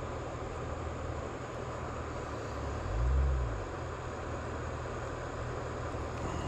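Steady rush of flowing creek water under a constant low rumble, which swells briefly about three seconds in.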